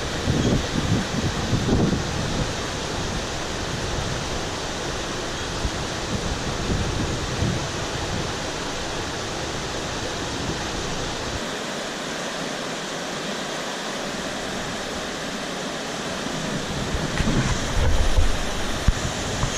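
Rushing water of a flood-swollen monsoon stream, a steady roar, with wind buffeting the microphone in gusts near the start and again near the end.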